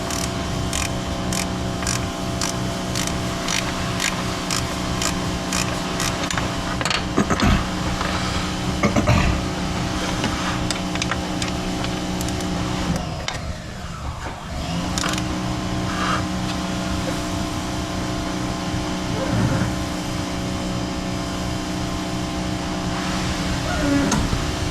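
Steady mechanical hum with several fixed tones, briefly dropping away and coming back about halfway through, with a run of regular clicks about twice a second during the first few seconds.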